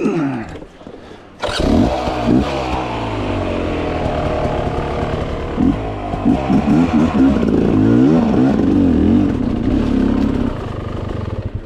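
Dirt bike engine coming in suddenly and loud about a second and a half in, then revved up and down with a run of quick throttle blips, before falling away near the end.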